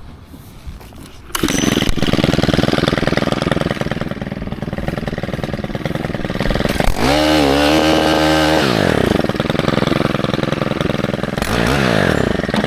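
Stihl KM 131 R KombiMotor's small four-stroke engine driving a cultivator attachment. It comes up to speed suddenly about a second in and runs hard while the tines dig into hard, rocky soil, its pitch dropping and recovering under the load around the middle and again near the end.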